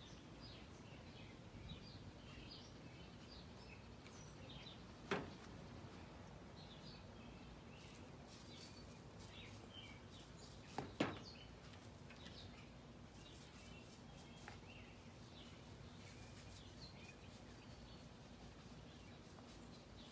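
Quiet outdoor background with faint, scattered bird chirps, and two brief sharp knocks about five and eleven seconds in.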